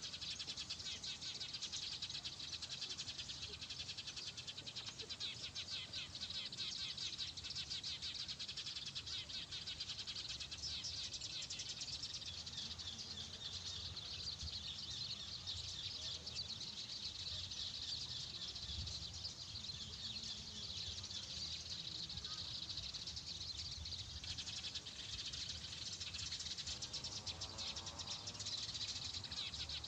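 Continuous dense chirping of a flock of small birds, the Eurasian tree sparrows being lured to a trap, with many fine rapid chirps that overlap without pause.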